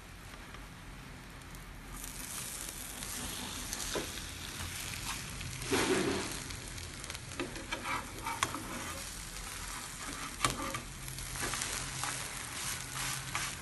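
Egg-dipped bread slices sizzling in ghee in a nonstick frying pan, while a metal spatula scrapes under them and turns them over. The sizzle grows louder about two seconds in, and the spatula scrapes and knocks several times, loudest about six seconds in as a slice is flipped.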